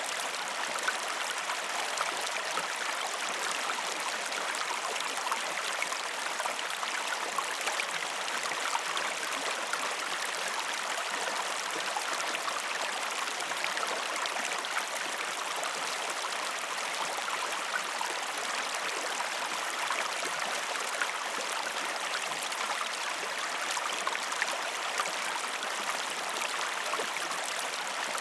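Waterfall: water falling and splashing steadily, an even rushing with fine splashing detail and little low rumble.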